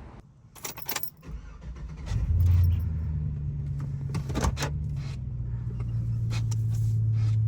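A few light clicks and jingles, then about two seconds in a vehicle engine starts and settles into a steady idle.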